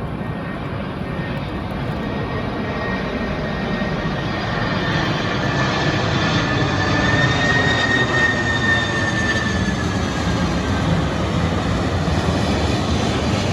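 Boeing 747 freighter's four turbofan jet engines on landing approach: a steady jet roar that grows louder over the first half and then holds, with a thin high whine that bends slightly down in pitch after its loudest point.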